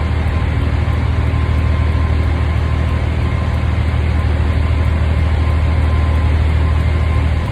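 Heavy semi truck's diesel engine running steadily with a deep, even hum.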